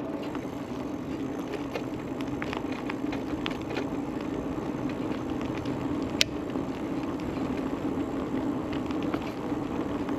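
Aventon Level 2 e-bike rolling along a trail: steady tyre and riding noise with scattered small crackles and one sharp click about six seconds in.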